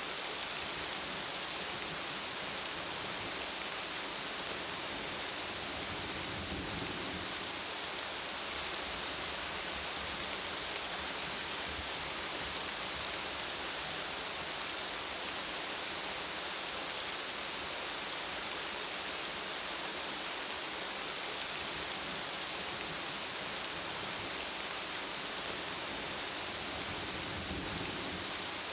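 Steady rain falling, an even hiss with no letup, with a soft low rumble rising briefly twice, once about a quarter of the way in and once near the end.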